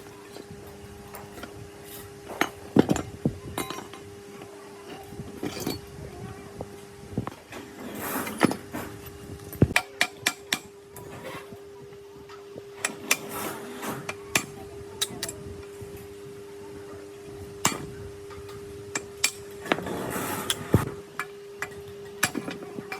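Hand tools knocking and clinking on metal parts at irregular intervals, over a steady hum.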